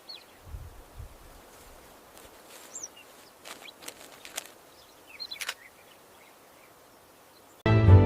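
Faint open-air ambience with a few scattered short bird chirps and some soft low thumps. Music comes in loudly near the end.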